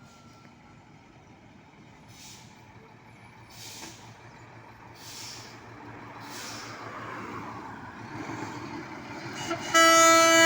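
A Scania truck's marine-style air horn sounds a loud, steady blast near the end. Before it, the truck's engine rumble grows louder, broken by a few short air hisses.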